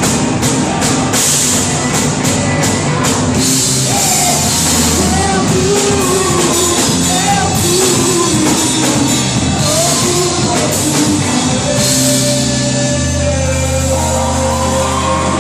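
Live worship band playing a praise song, with drum kit, instruments and a sung melody.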